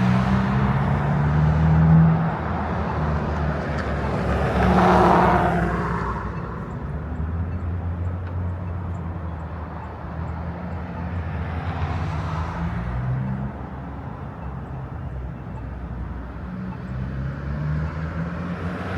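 Motor traffic on a busy road going past a moving bicycle: a car passes close about five seconds in and another about twelve seconds in, over a steady low rumble.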